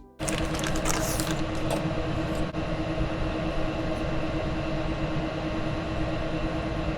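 Steady mechanical rushing noise with a constant low hum, cutting in abruptly just after the start.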